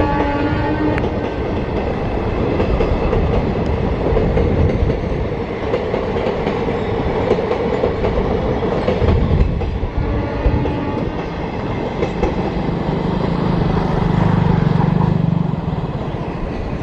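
A train running past on the track: a steady rumble and clatter of wheels over the rails. A horn note ends about a second in, and a short horn sounds again about ten seconds in.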